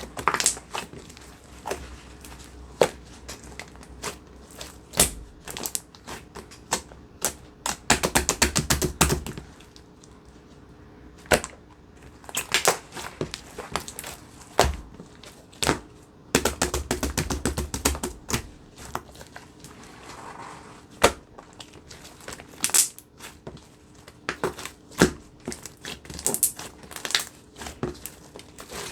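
Handmade slime being squeezed, stretched and poked by hand, giving sharp, sticky clicks and pops at an uneven pace. Quick runs of rapid clicks come about eight seconds in and again around sixteen to eighteen seconds.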